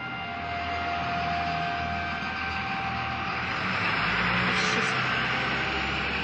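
Unexplained droning sound from the sky: a steady hum with several held tones. About halfway through, a rushing noise swells up and then eases slightly.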